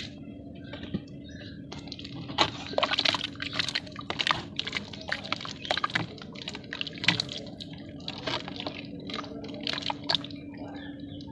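Lumps of dry red dirt crumbling and crackling wet, the way dry clay does when dipped in water and crushed. It comes as an irregular run of sharp crackles and drips that starts about two seconds in and thins out near the end.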